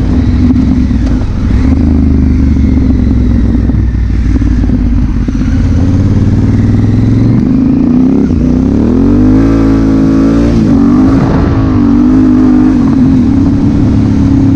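Engine of a 2016 Honda Africa Twin CRF1000L, a parallel twin, running under way. Its pitch holds steady at first, then rises and falls several times in the second half as the throttle is worked.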